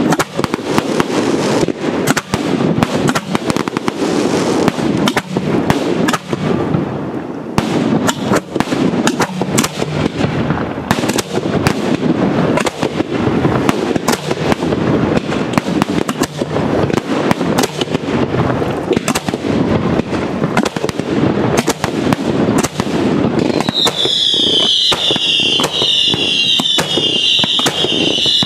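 Professional fireworks display: a rapid, continuous barrage of shells and comets bursting overhead, bang after bang with crackle. Near the end a chorus of shrill whistles joins the bangs.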